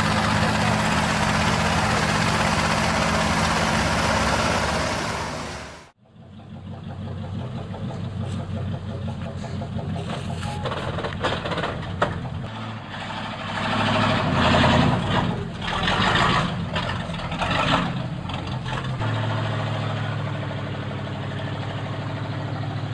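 Heavy truck engines running hard under load, in two separate clips. The first is a dense, steady engine sound that cuts off abruptly about six seconds in; the second engine's pitch shifts several times, with scattered knocks and clatter over it.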